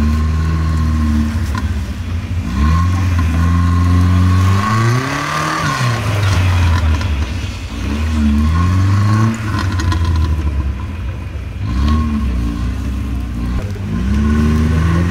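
Off-road 4x4's engine revving up and down again and again as it drives over rough ground, with the longest rise peaking around the middle.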